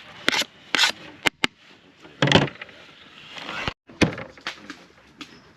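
Irregular sharp knocks and clatters, about six of them, the loudest just after two seconds in and another at about four seconds.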